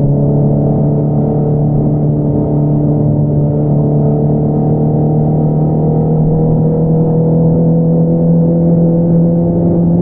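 Honda CBR650R's inline-four engine running through an Akrapovič single-outlet exhaust, pulling steadily with its pitch rising slowly as the bike gradually gathers speed.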